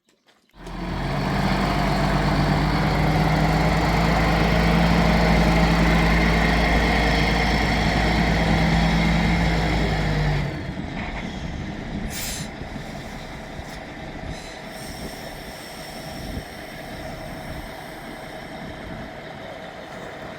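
A motor engine running steadily with a low hum, stopping suddenly about ten seconds in; quieter background noise with a few knocks follows.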